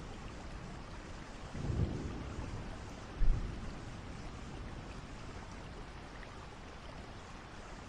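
Steady rain from a thunderstorm, with two thunder peals: a low rumble about two seconds in and a sharper, louder clap just after three seconds, after which only the rain continues.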